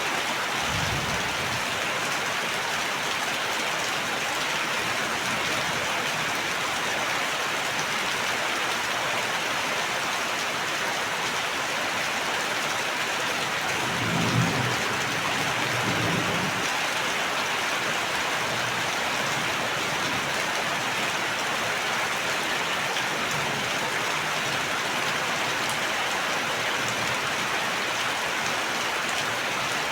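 Steady, even rain hiss throughout. A brief low rumble comes about halfway through.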